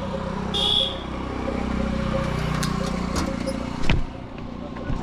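A motor vehicle passes on the road, its engine note swelling and then falling in pitch over a couple of seconds above steady wind and road rumble. There is a brief high squeal near the start and a sharp knock near the end.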